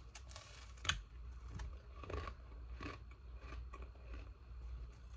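Ice being bitten and chewed close to the microphone: one sharp loud crack of a bite about a second in, followed by irregular crunching of frozen ice pieces.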